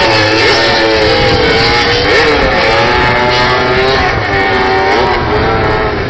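Several MotoGP racing motorcycles revving hard and launching in practice starts. Their engine notes overlap, each rising and falling, loud throughout.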